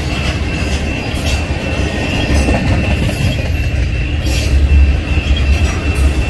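Double-stack intermodal container train rolling past close by: a steady, loud low rumble from the well cars with a thin, sustained high-pitched wheel squeal over it. The rumble swells about four to five seconds in.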